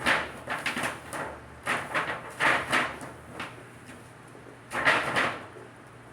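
Short, irregular scraping and rattling noises from hand work with sheet aluminum and tools, in several bursts with quiet gaps between.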